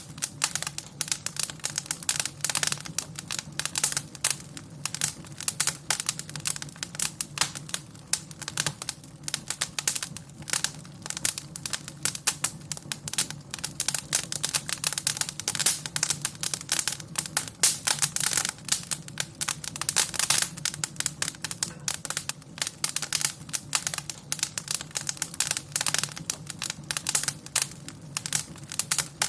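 Wood fire crackling and popping, with dense irregular snaps over a low steady rumble of the burning fire.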